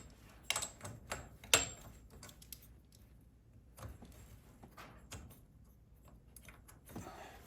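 Light metallic clicks and taps of garage door hardware being handled, as a loosened cable drum is worked on its torsion shaft. There are two louder clinks in the first two seconds, then sparse faint ticks.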